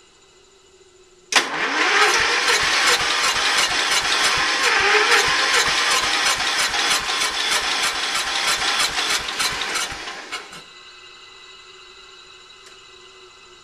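Kohler K301 single-cylinder engine turned over by its electric starter for about nine seconds, cranking slowly with evenly spaced compression beats about three a second, then stopping without catching. The slow cranking comes from a weak battery; the owner suspects the hard start is a valve problem after a new piston was fitted.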